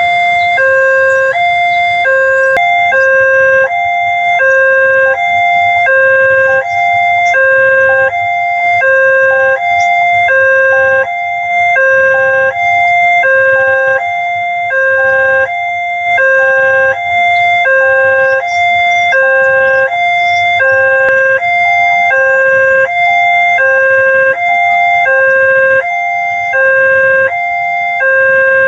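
Railway level-crossing warning alarm sounding a steady electronic two-tone signal, a lower and a higher tone alternating about every 0.8 s: the warning that a train is approaching the crossing.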